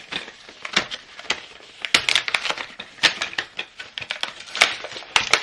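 Plastic packaging of a carded Pez dispenser clicking and crinkling as it is handled and opened: an irregular run of sharp clicks mixed with short crackling rustles.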